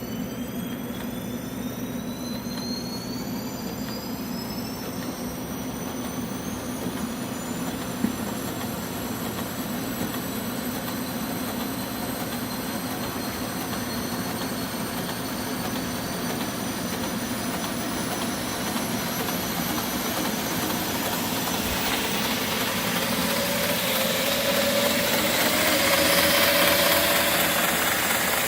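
Homemade belt grinder with a 75 x 2000 mm belt running, its whine rising in pitch as it speeds up. The sound grows gradually louder, with a stronger hiss over the last several seconds, and there is one sharp click about eight seconds in.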